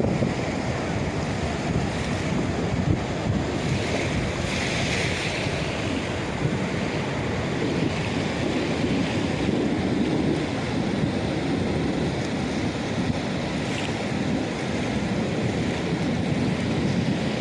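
Black Sea surf breaking and washing on the beach, with wind buffeting the microphone. A louder hiss of water comes about four to six seconds in.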